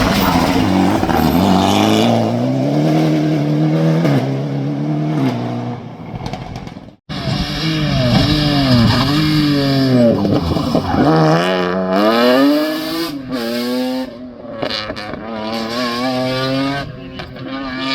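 Rally car engines at full throttle on a stage, in two passes. The first car's engine note rises, holds high, then fades. The second car's engine note swoops down and up several times, then climbs in steps through gear changes as it accelerates.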